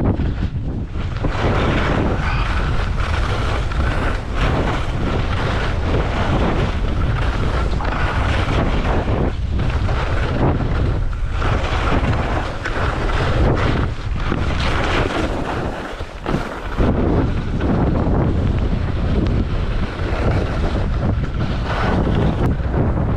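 Strong wind buffeting an action camera's microphone: a loud, steady rumbling rush that swells and eases with the gusts, dropping off briefly about sixteen seconds in.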